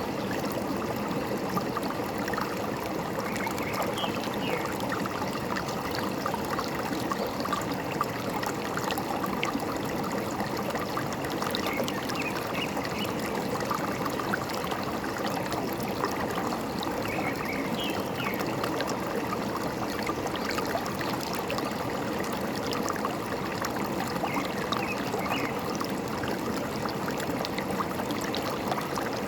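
Forest stream running steadily, with a few faint bird chirps now and then.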